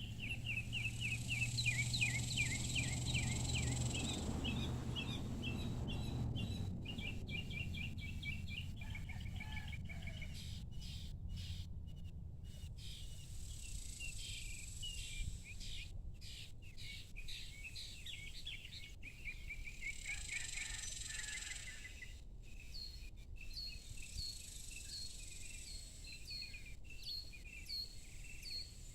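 Evening outdoor ambience: birds chirping in quick repeated notes, with a high hiss that comes and goes. A low hum underneath fades out about six seconds in.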